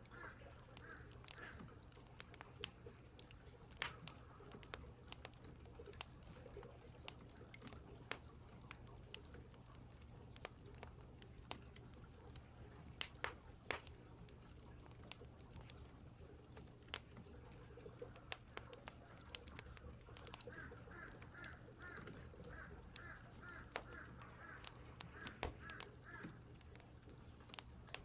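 Crows cawing in runs of quick repeated calls, once at the start and again for several seconds near the end, over faint scattered sharp clicks and a steady low hum.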